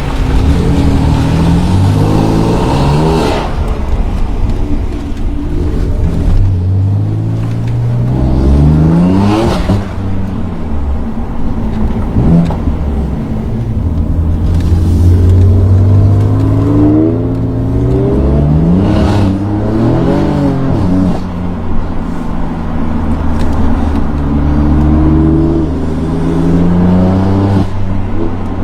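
BMW performance car engines revving hard several times, the pitch climbing and falling back in repeated sweeps, with a steady running note between the revs.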